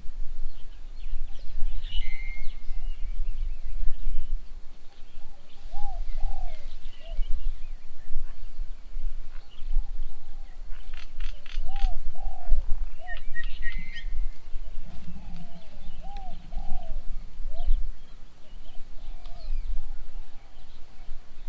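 Doves cooing in short, repeated arched notes, with smaller birds chirping higher up and a quick run of sharp notes about halfway through, over a steady low rumble.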